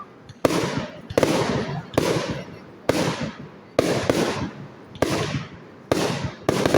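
Fireworks going off in quick succession: about eight sharp bangs, roughly one a second, each followed by a noisy tail that fades away.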